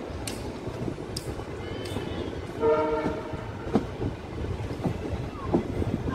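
Passenger train rolling along, heard from aboard a coach: a steady rumble of wheels on track with occasional clicks over rail joints. A short locomotive horn blast sounds about two and a half seconds in, lasting about half a second.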